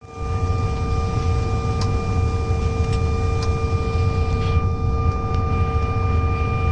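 Steady cabin noise inside a CRJ-900 airliner before departure: a constant low rumble with a steady high whine from the aircraft's running systems.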